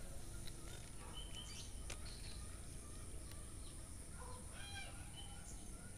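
Faint pond-side ambience: scattered bird calls and chirps over a low steady rumble, with a thin high steady hiss and a few faint clicks.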